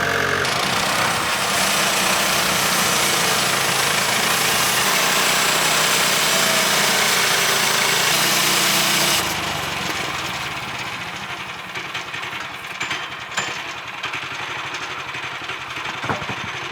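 Woodland Mills HM126 bandsaw mill with its engine under load and the band blade cutting through a white pine log, a loud, dense hiss over the engine. About nine seconds in the hiss fades as the cut ends and the engine runs on lower, with a few light knocks.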